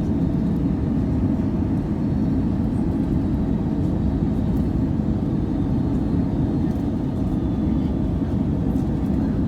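Steady low roar of an Airbus A320neo airliner, engine and airflow noise heard inside the cabin.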